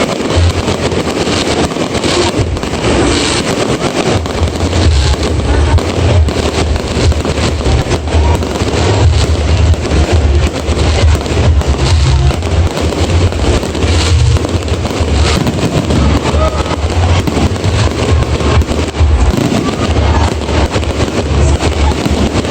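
Fireworks going off in rapid succession, a dense stream of sharp cracks and pops over deep booms, with music playing alongside.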